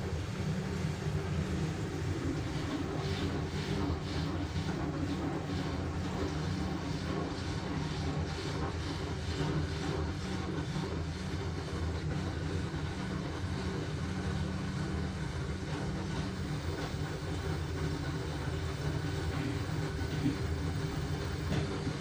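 LG washing machine running a wash cycle with a load of blankets: a steady low motor hum as the drum turns, with soft tumbling and sloshing from the wet blankets.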